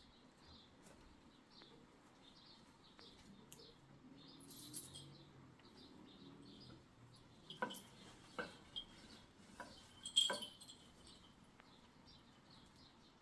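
Faint, repeated short high chirps of a small bird. A few sharp clinks or knocks come about two-thirds of the way in, the loudest near the end.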